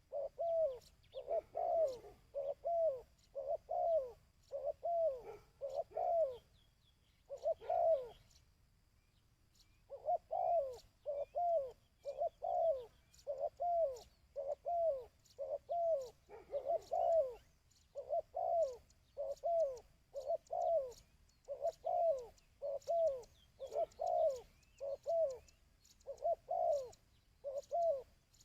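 Dove cooing: short, arched coos repeated about one to two a second, in pairs and little runs, with a pause of about two seconds roughly a third of the way through. Faint higher chirps sit behind them.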